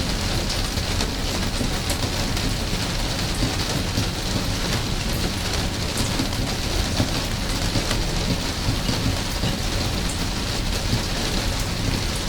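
Steady rain falling, with scattered sharper drop hits and a constant low rumble beneath.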